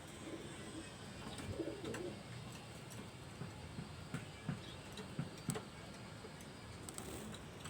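Pigeon cooing softly, mostly in the first couple of seconds, with scattered sharp clicks.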